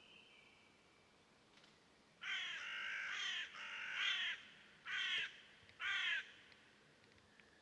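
Harsh, raspy bird calls in four bursts, each a fast run of falling notes, starting about two seconds in, the first burst the longest.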